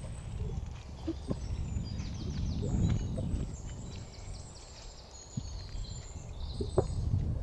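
Wild birds chirping and trilling over a low, uneven rumble, with a few sharp knocks scattered through.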